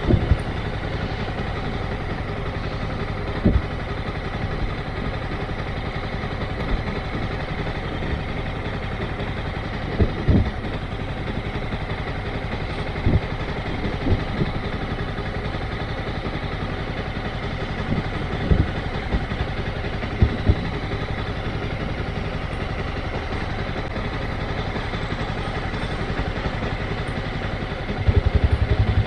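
Motorcycle engine running steadily at low revs, with a few short knocks here and there; the engine grows louder near the end.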